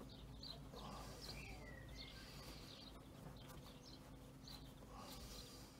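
Near silence, with faint bird chirps and short calls scattered throughout.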